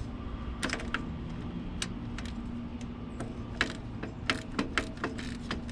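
Ratchet with a 14 mm socket and extension clicking as a starter mounting bolt is worked loose: scattered metallic clicks, with a quicker run of them about four seconds in, over a steady hum.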